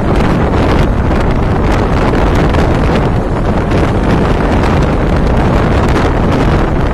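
Heavy wind buffeting the microphone, held out from the side of a moving passenger train, over the steady rumble of the coaches running on the track, with faint clicks from the rails.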